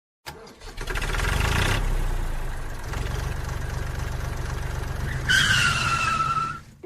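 A vehicle engine runs steadily after building up in the first second, and a squeal falling slightly in pitch comes in near the end.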